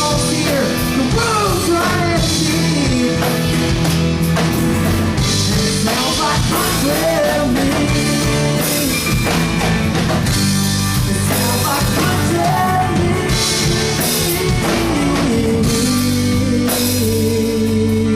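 Live country-rock band playing the closing instrumental stretch of a song, with drum kit, guitars and bass.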